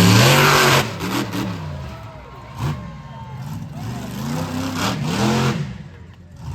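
Monster truck engine revving hard in a show arena, its pitch rising and falling again and again. The loudest burst comes in the first second.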